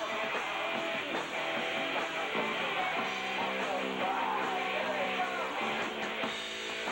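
A high school rock band playing a song: guitar chords ring over a steady backing, with a melody line bending up and down in pitch through the middle.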